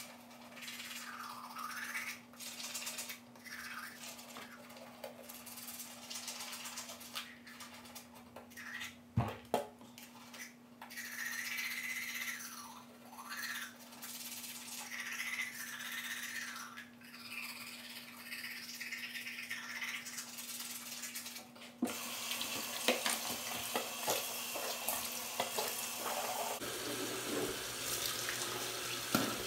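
Teeth being brushed with a toothbrush, in repeated scrubbing strokes, over a low steady hum. Near the end a bathroom sink tap runs with a steady hiss of water.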